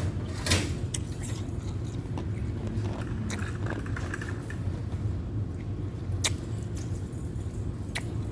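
Steady low hum of laundromat machines running, with about five sharp crunches and clinks of ice.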